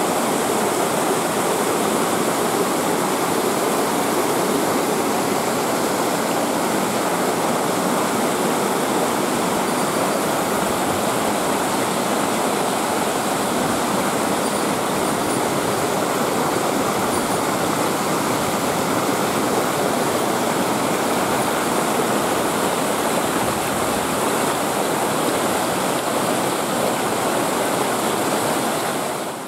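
Waterfall pouring steadily, a dense, even rush of falling water that cuts off suddenly at the end.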